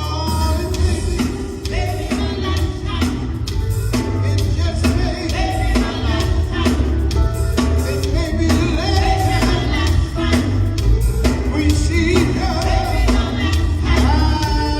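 Live gospel band playing with singing over a heavy bass line and a steady drum beat.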